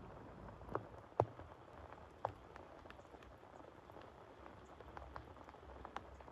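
Rain falling, a steady patter with scattered louder single drops striking a surface, the sharpest about a second in.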